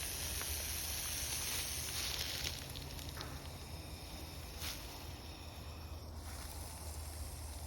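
Bullsnake hissing: a steady, breathy hiss that fades after about two and a half seconds, over a low steady rumble.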